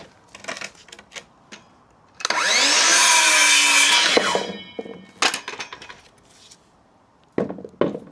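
A power tool run for about two seconds on a wooden branch: the motor whine rises as it spins up and falls as it winds down. Sharp wooden knocks from the branch being handled come before and after it.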